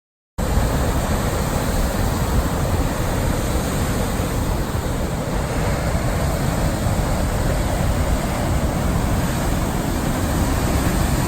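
Strong hurricane wind buffeting the microphone over the steady roar of heavy surf, cutting in suddenly about half a second in.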